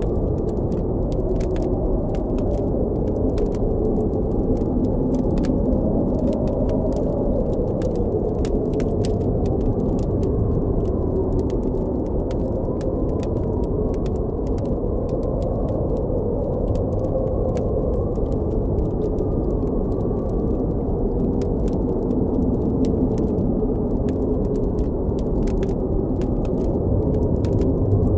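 Blizzard wind blowing steadily, with a low howl that slowly wavers in pitch. Over it, a campfire crackles with many small, sharp pops.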